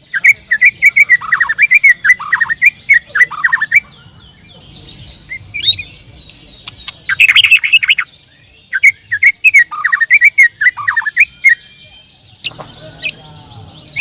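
Canaries singing fast chirping trills in two long bouts, with a pause of a few seconds between them.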